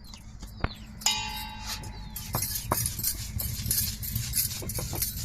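Ammi grinding stone at work: the stone roller scraping and grinding back and forth over a paste of coconut, dried chillies, garlic and cumin, in quick rough strokes of about three a second that start about two seconds in. A brief pitched call sounds about a second in.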